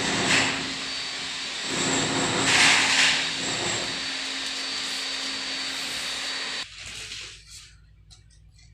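An electric power tool or blower motor running steadily with a rushing noise and a faint hum, with a couple of brief louder surges, then switched off suddenly about two seconds before the end.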